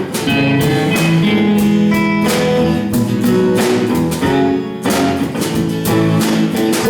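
Live band playing a guitar-led instrumental passage with no vocals, over a steady beat.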